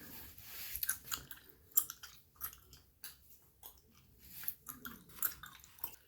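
Gum chewing close to the microphone: uneven wet smacks and clicks of the mouth, about two a second.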